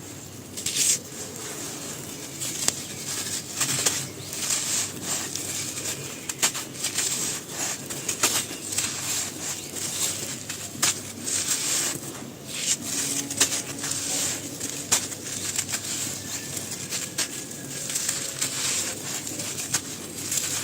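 Dry, brittle black grainy material with white stones on top being crumbled, giving a dense run of crisp crunches and sharp cracks, with a few louder snaps.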